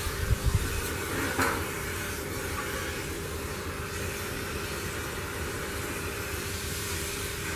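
Steady motor vehicle noise: a constant rumble and hiss with a steady hum, a few low thumps at the start and a short knock about a second and a half in.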